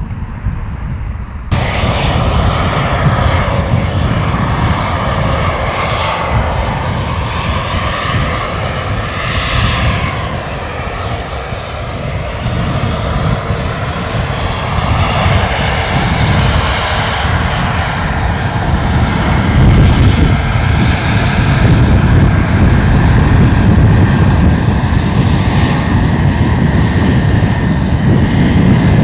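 Fixed-wing aircraft engines running loud, starting suddenly about a second and a half in, with a thin high whine over a steady roar that grows louder in the second half.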